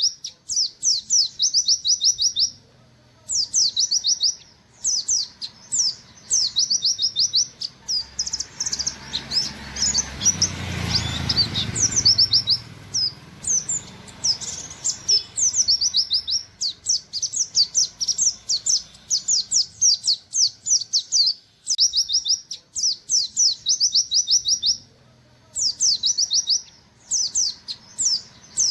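An Oriental white-eye (pleci, buxtoni form) sings in rapid 'nembak' bursts of sharp, high, falling 'wit wit' notes strung in a line. The phrases last a second or two with short gaps between them. About a third of the way in, a rushing noise rises and fades under the song.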